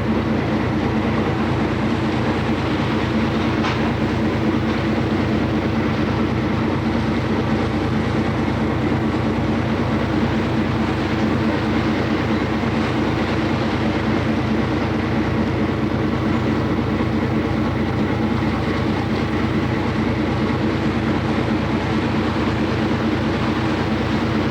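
Steady drone of a passenger boat's engine running, a low hum of several even tones that holds without change.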